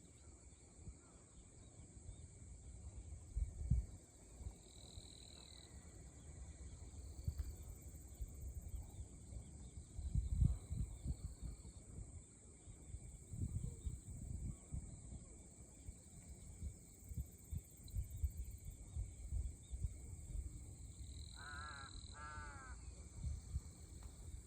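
Waves washing on the shore as a low, uneven rumble, and a crow cawing twice near the end.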